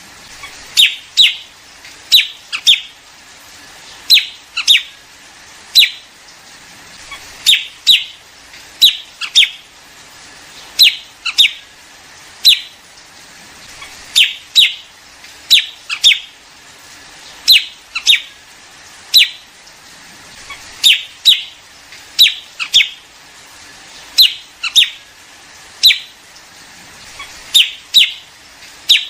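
Recorded calls of the liếu điếu, a small songbird used as a flock lure: short, sharp chirps, often in quick pairs, repeated about every second.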